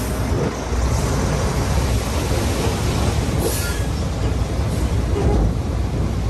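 Shantui crawler bulldozer working: its diesel engine runs steadily under the clatter of its steel tracks, with a brief high screech about three and a half seconds in.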